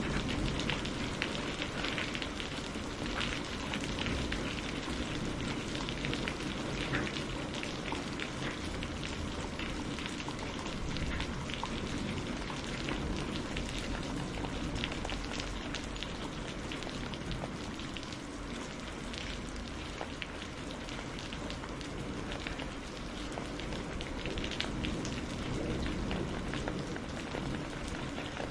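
Steady rainfall, with many individual drops ticking sharply against a surface close by over a constant hiss. There is no thunder.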